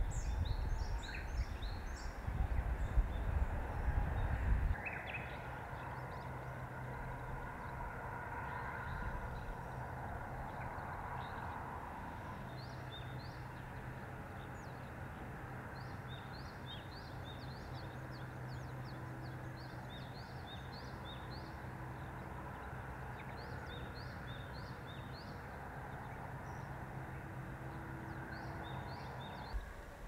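Small wild birds calling in runs of short, high chirps through most of the clip, most densely in the second half. Wind rumbles on the microphone for the first few seconds, then gives way to a faint steady low hum.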